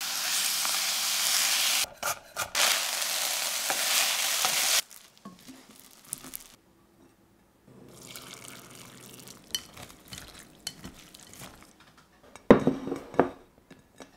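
Pork mince sizzling in a hot frying pan as a spatula presses on it, for the first few seconds with a brief break. Then comes the quieter sound of pickling liquid pouring over shredded red cabbage in a glass bowl. Near the end there is a sharp knock with clattering.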